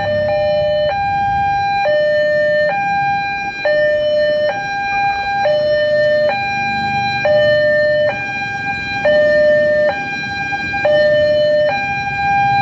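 Railway level-crossing warning alarm at a Siemens-equipped crossing, sounding a replacement electronic two-tone signal that alternates evenly between a higher and a lower tone, each held just under a second. It warns that the crossing is closed for a train.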